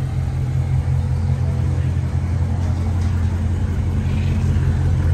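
Dodge Charger V8 engine idling with a steady, even low rumble.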